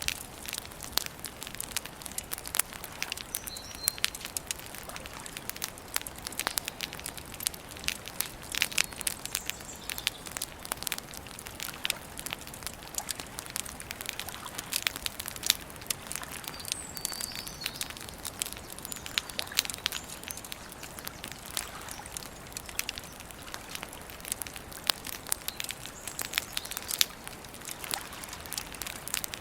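Wood campfire crackling steadily, with frequent sharp pops and snaps of burning wood. A bird chirps faintly a couple of times.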